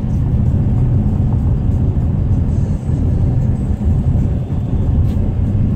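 Steady low rumble of a vehicle driving, engine and tyre noise as heard inside the cab.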